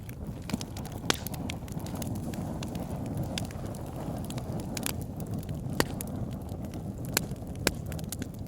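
Wood fire burning in a fireplace: a steady low rumble of flames with frequent sharp crackles and pops from the logs, a few louder snaps scattered through.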